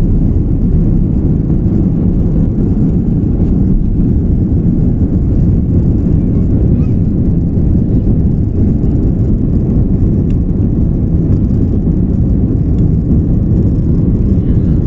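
Steady, loud low rumble of an Airbus A330-300's engines and airflow heard inside the passenger cabin during takeoff, with no change in pitch.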